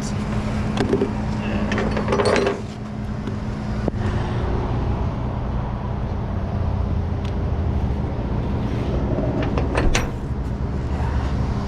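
Tow truck engine running steadily, with a few short knocks and clanks; a steady hum in it drops away about four seconds in.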